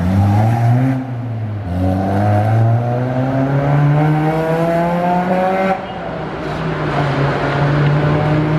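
Car engine accelerating, its pitch climbing steadily and dropping back twice, about a second in and near six seconds, as it shifts up through the gears. After the second shift it holds a steady pitch.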